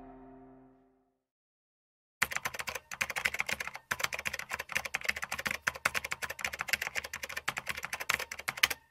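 Rapid keyboard-typing clicks, many a second, starting about two seconds in with two brief breaks and stopping abruptly just before the end. The tail of a music note fades out in the first second.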